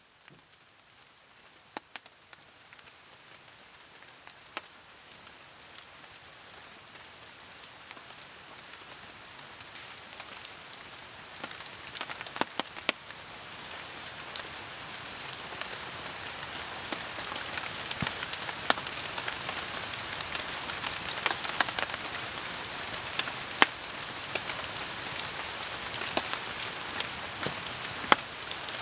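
Steady rain falling, blended with a distant river's rush into an even hiss, while a wood campfire crackles with sharp pops every second or so. The sound fades in over the first dozen seconds or so.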